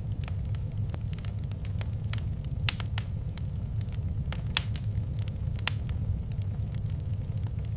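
Wood fire in a fireplace crackling, with irregular small snaps and a few sharper pops over a steady low rumble.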